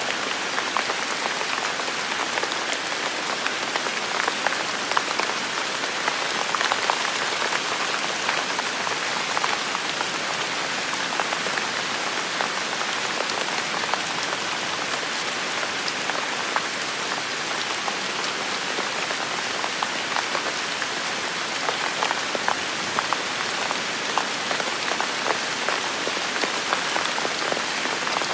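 Heavy rain falling steadily: a dense, even hiss with many individual drop hits standing out.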